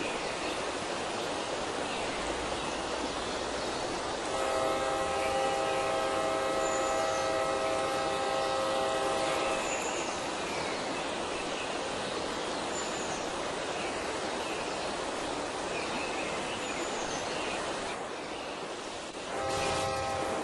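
A train's horn sounds a multi-note chord in one long blast of about five seconds, then again briefly near the end, over a steady rushing noise.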